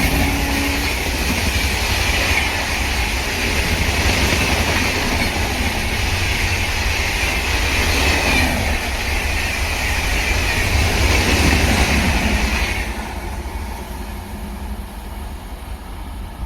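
Passing Indian Railways train: the tail of its horn fades out about a second in, then loud, steady wheel-and-rail noise and rumble run until the noise drops off sharply about 13 seconds in as the train clears.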